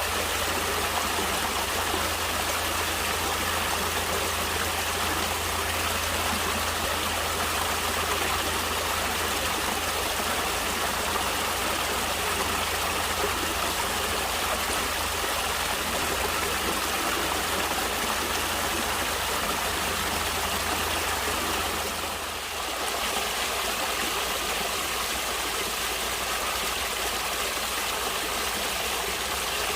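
Steady rush of flowing stream water, with a brief dip in level about three-quarters of the way through.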